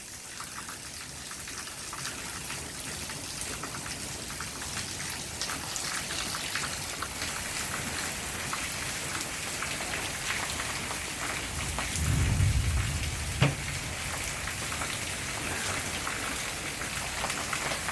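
Steady rain falling, with many small drop taps throughout. A brief low rumble comes about twelve seconds in, followed by a single sharp tap.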